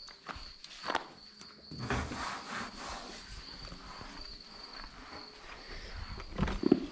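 A steady, high-pitched cricket trill, with scattered soft scuffs and handling noises and a short cluster of louder knocks near the end.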